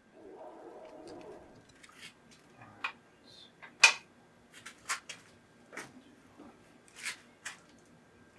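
Hand tools working on the Porsche 944 engine's cylinder head: a brief rustle, then about six sharp metallic clicks and knocks at roughly one-second intervals, the loudest in the middle.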